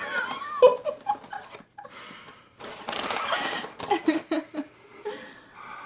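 Short wordless vocal noises and a sharp click, then a burst of crinkling rustle about three seconds in, as a habanero potato chip is taken out of its bag.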